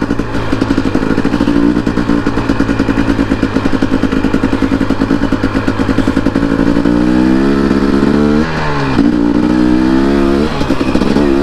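Dirt bike engine running with a steady, fast, even pulse, then revved up and down several times from about seven seconds in.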